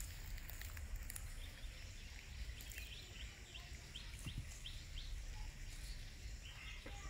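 Outdoor ambience with a steady low rumble. In the middle, a bird calls a quick run of about eight short, falling chirps, roughly three a second.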